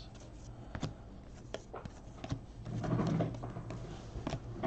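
Trading cards being handled between reads: a few light clicks and snaps of cards flicked and slid in the hand. A faint murmur of a voice comes about three seconds in.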